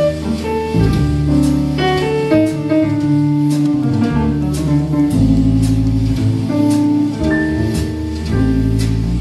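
Jazz trio playing an instrumental break with no vocal: keyboard chords and melody over walking bass notes, with drums keeping time on the cymbals.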